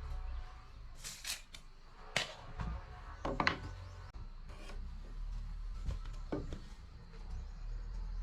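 Scattered knocks and clunks, as of wooden boards and tools being handled, over a steady low rumble; the loudest are about three seconds in.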